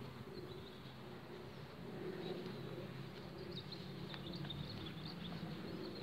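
Small birds chirping faintly in short, scattered calls over a low, steady background rumble.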